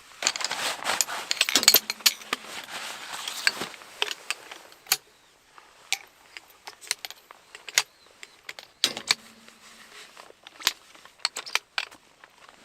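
Tent-pitching gear being handled: about four seconds of dense rustling, then scattered sharp clicks and metallic clinks.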